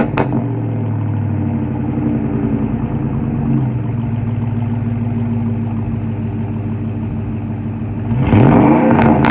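Ford F-150 idling steadily through a single Black Widow muffler off a straight pipe, settling from a rev at the start. About eight seconds in the engine is revved up quickly and drops back, with a few sharp pops from the exhaust as it comes down.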